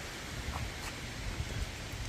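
Strong gusty wind buffeting the microphone: a steady rushing hiss with a low rumble that surges and drops with each gust, and a few faint ticks.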